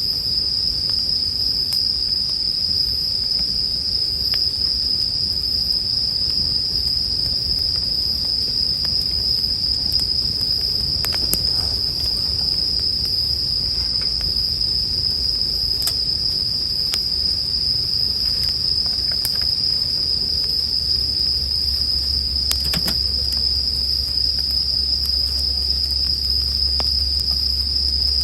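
Japanese bell crickets (suzumushi) chirping in a steady, unbroken high-pitched chorus, with a few faint crackles from a campfire now and then.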